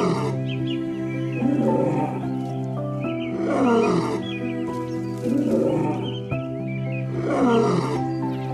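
Calm background music under a repeated animal call that falls in pitch, sounding about five times, roughly every two seconds.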